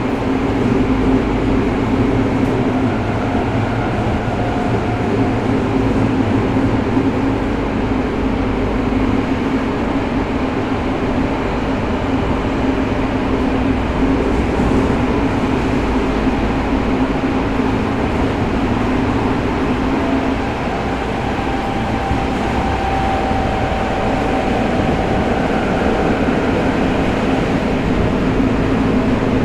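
A Tokyo Metro 05 series subway car running steadily between stations in a tunnel: a constant rumble of wheels on rail, with faint steady hums from its Mitsubishi IGBT inverter-driven traction motors.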